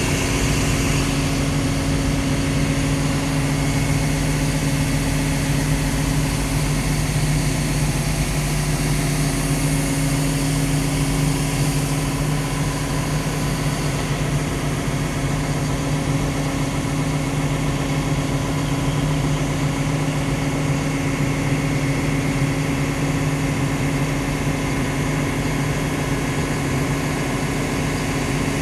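Cummins diesel engine of a Liugong CLG922E crawler excavator idling, a steady, even hum with no revving.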